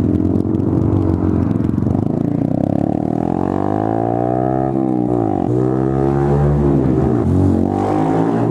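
Honda Grom (MSX125) motorcycle's single-cylinder engine running under way. The engine note rises and falls several times, with sharp dips near the middle.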